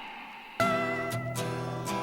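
Background music: strummed acoustic guitar chords starting abruptly about half a second in, over a faint rushing noise that fades in before it.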